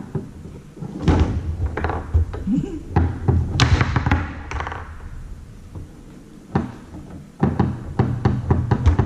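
Foosball on a Tornado table in play: quick, irregular sharp knocks and clacks as the ball is struck by the men on the rods and the rods are slammed, with a low rumble underneath.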